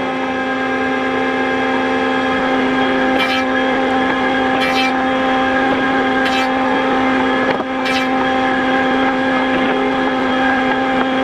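An electric woodworking machine's motor running at a steady, unchanging pitch, with four short hissing bursts about a second and a half apart in the middle.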